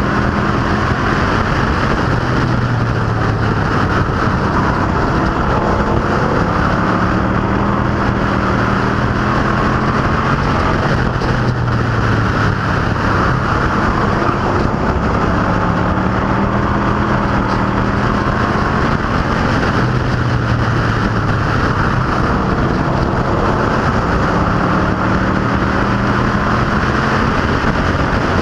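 Engines of a field of street stock cars and pro trucks racing around an oval, a continuous loud drone whose pitch rises and falls in slow waves every several seconds.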